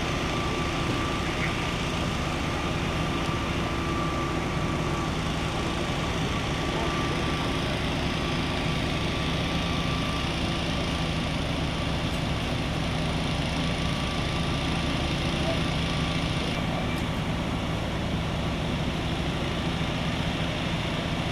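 A vehicle engine idling steadily, a constant low drone with a steady hum over it.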